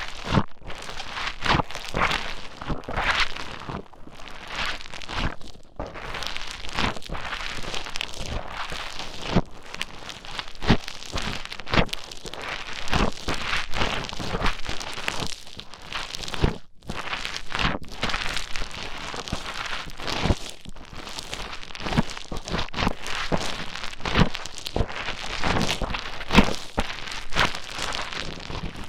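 Play Foam (modelling foam of tiny beads) being squished and mixed close to the microphone: a dense, continuous crackling of many small clicks and pops.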